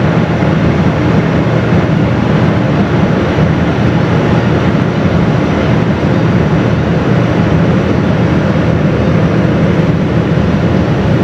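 Car ferry under way: a steady low rumble with a rushing noise over it, unchanging throughout.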